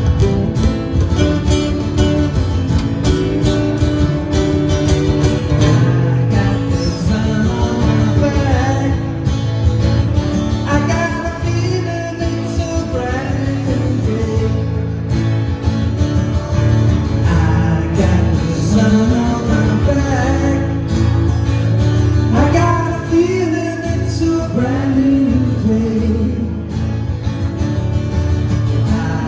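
Live folk band playing an instrumental passage of a song: strummed acoustic guitar with a lead melody line over it.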